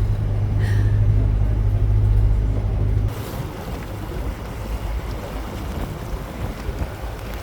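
Narrowboat's diesel engine running with a steady low drone. About three seconds in it cuts off abruptly, leaving wind and waves on open water.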